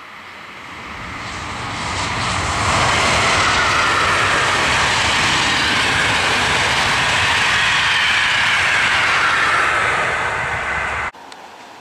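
Long passenger train of white-and-red coaches passing at speed on an electrified main line: a rushing run of wheels on rail and air that builds as it approaches and stays loud as the coaches go by. The sound cuts off abruptly about a second before the end.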